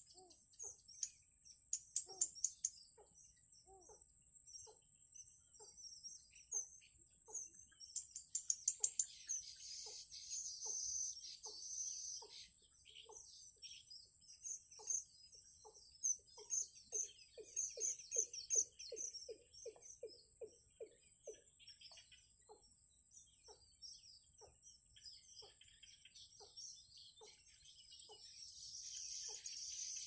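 Birds chirping and calling: high twittering over a steady high-pitched whine, with a run of short lower notes repeating about once or twice a second that quicken to about three a second around the middle.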